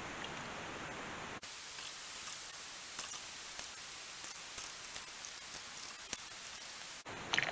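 Faint steady hiss with scattered light ticks, from windshield-washer-type fluid trickling through the hose and valve-stem adapter into the tractor tire. The hiss changes character about a second and a half in.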